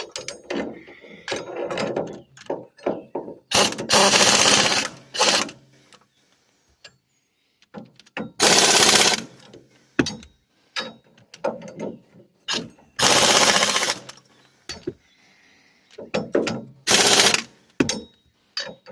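Pneumatic impact wrench run at turned-down air pressure in short bursts of about a second, about five times, to snug the bolts without over-torquing them, with clinks of metal between the bursts.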